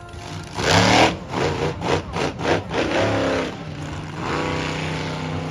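Monster truck engine revving hard in uneven bursts, then holding a steady drone from about four seconds in.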